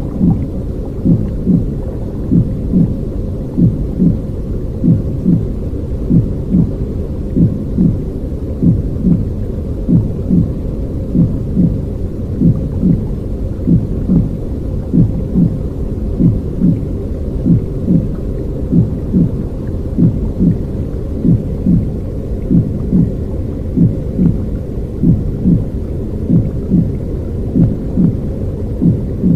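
Baby sleep-sound track of deep, steady rumbling noise with soft, regular thuds over it, about three every two seconds, some of them paired.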